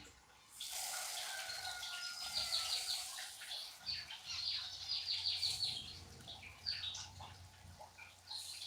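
Small caged birds chirping and twittering, with a couple of quick trilled runs of notes.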